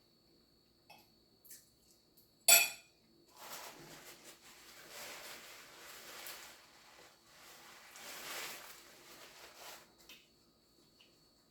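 Dishes and utensils handled at the table: a few light clicks, one sharp clink about two and a half seconds in, then about seven seconds of scraping, rustling noise that swells twice.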